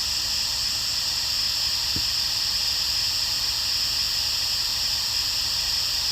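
Steady, even hiss with a low rumble underneath and one faint click about two seconds in.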